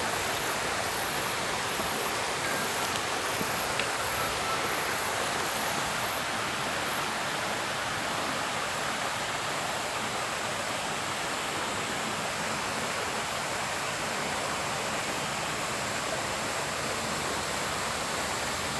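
Steady rush of running water over rocks, like a small stream or cascade. A high-pitched insect chirps regularly, about one and a half times a second, over the first seven seconds, then stops.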